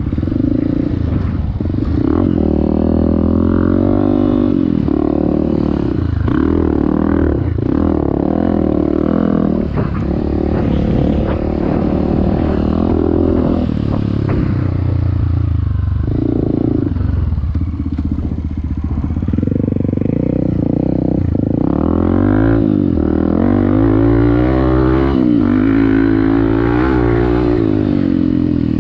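Off-road motorcycle engine being ridden hard, its pitch rising and falling over and over as the throttle is opened and rolled off, with rattling clatter from the bike over rough ground.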